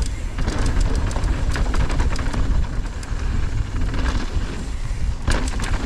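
Mountain bike riding fast down a rocky trail: wind buffeting the microphone, with the tyres and bike parts clicking and rattling over rocks and a sharper clatter about five seconds in.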